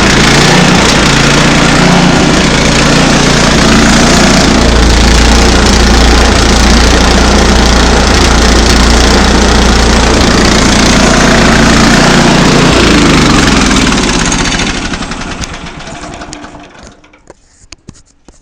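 Small gas engine of a portable sawmill running steadily under load through a log. It changes note about two-thirds of the way in, then winds down and stops near the end.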